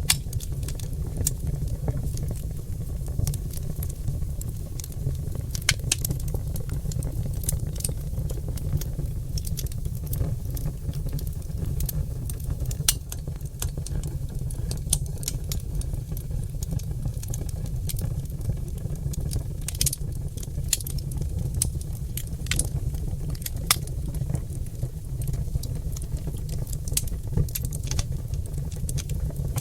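Oak logs burning in a fireplace, crackling and popping: frequent irregular small pops, some louder, over a steady low rumble.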